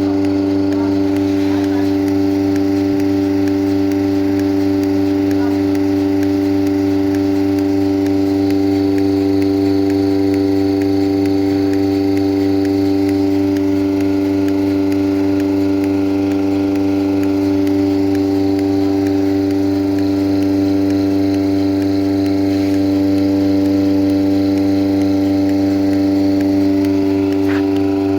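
Milking machine running with a loud, steady hum of several fixed pitches that never changes.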